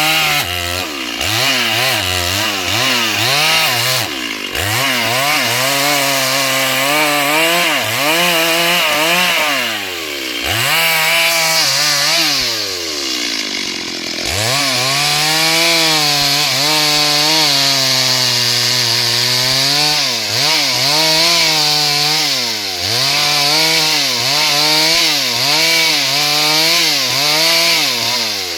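Chainsaw cutting through a hard log. The engine pitch sags under load and picks back up again and again, with two deeper drops about ten and fourteen seconds in.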